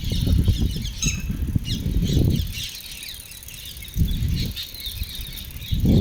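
Many small birds chirping and twittering together in quick, overlapping calls. Stretches of low rumbling noise come and go underneath, loudest in the first two seconds and again at the very end.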